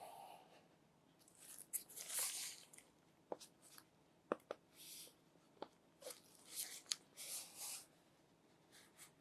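Faint unboxing sounds: packaging rustling and tearing in short, irregular bursts, with several sharp clicks and taps.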